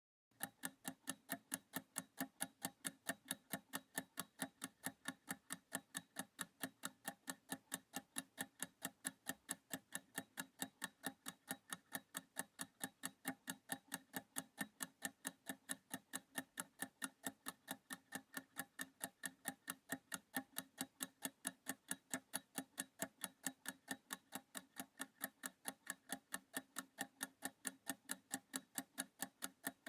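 Clock ticking sound effect used as a countdown timer: evenly spaced sharp ticks, a few a second, starting about half a second in.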